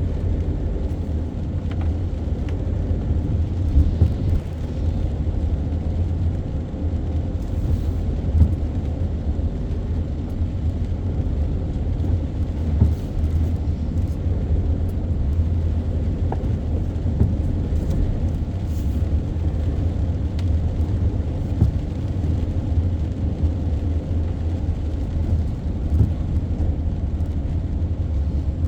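A car being driven in traffic: a steady low rumble of engine and road noise with no sharp changes.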